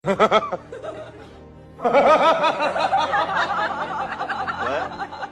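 Laughter over background music: a quick burst of laughing at the start, then longer wavering laughter from about two seconds in until near the end.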